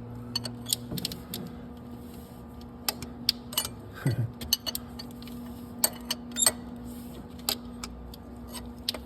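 Wrench clicking and clinking irregularly on a nut welded onto a broken exhaust manifold bolt as the bolt is worked loose, over a steady low hum.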